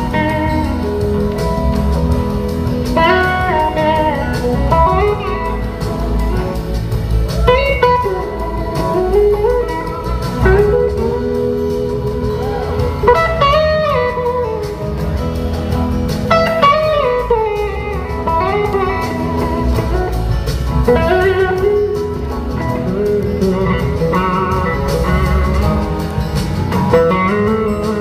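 Live blues-rock band playing an instrumental section: an electric slide guitar solo, its notes gliding up and down in pitch, over a full band with bass and drums.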